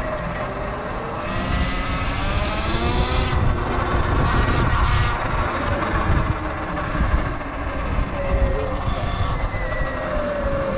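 Sur Ron electric dirt bike's motor whining, its pitch rising as the bike speeds up and sliding again near the end, over a heavy rumble of riding noise.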